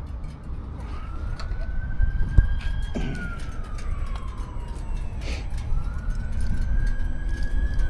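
Emergency vehicle siren wailing, with two slow cycles that each rise for about two seconds and then fall away, over a low traffic rumble. A single thump comes about two and a half seconds in.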